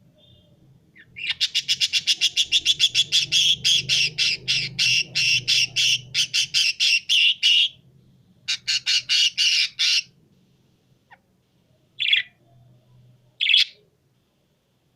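A caged pet bird calling in a fast, even run of sharp, high repeated notes, several a second, for about six seconds. A shorter run follows, then two single calls near the end.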